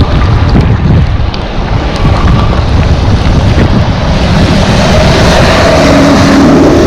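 Wind buffeting the microphone on a moving e-bike in the rain. Near the end a bus comes up alongside: a rising hiss of tyres on the wet road and a faint steady hum.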